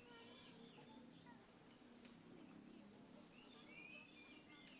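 Faint, scattered chirps and short whistles of an Oriental magpie-robin (kacer), with a low steady hum underneath and a small click near the end.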